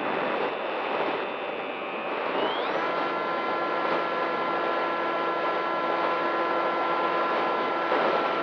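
RC model plane's motor whining steadily over a rush of wind noise, stepping up to a higher pitch about two and a half seconds in as the motor speeds up.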